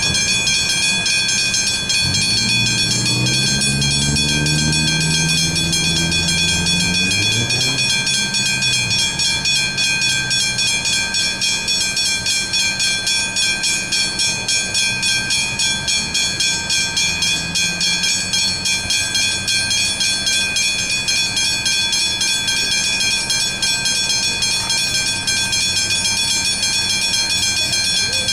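Level crossing warning bells ringing continuously with a fast, even strike. For the first several seconds a train's motor tones slide up and down in pitch underneath the bells.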